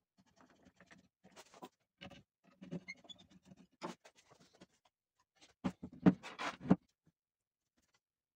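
Irregular scratching and light knocks from hand work on a wooden chair, with a louder run of sharp knocks a little over halfway through, after which it stops.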